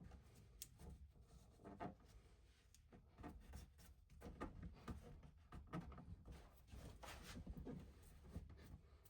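Faint, irregular scratching and rubbing with light taps, the sound of hand work in a small room.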